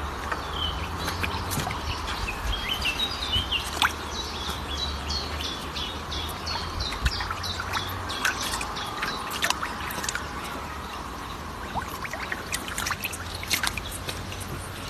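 A bird chirping in a quick run of short high chirps, about four a second, over a steady hiss with scattered clicks.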